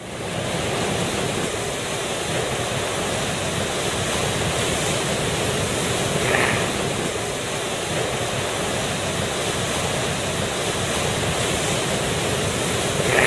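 Heavy ocean surf breaking, a steady rush of waves with wind on the microphone. Twice a brief higher-pitched sound cuts through, about halfway and at the end.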